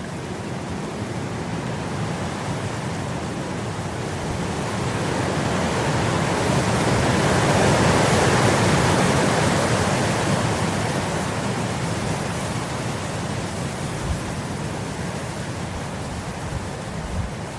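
Wind blowing across grass, rising into a gust that peaks about halfway through and then eases off.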